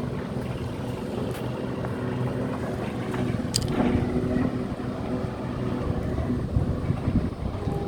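A vehicle engine running steadily with a low rumble and wind on the microphone; a short sharp click sounds about three and a half seconds in.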